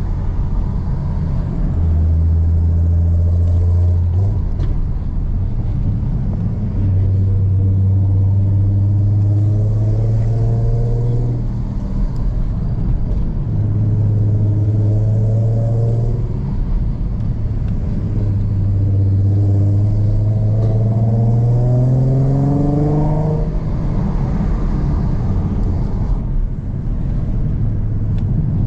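Ford Mustang V6 through an aftermarket Roush exhaust, driven hard in a manual gearbox. The engine note climbs steadily over several seconds and then drops back, again and again, as the car accelerates and eases off.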